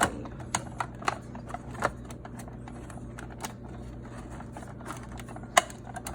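Scattered sharp clicks and taps of a Keurig coffee maker's plastic housing panel being handled and slid back into place, the loudest click about five and a half seconds in, over a low steady hum.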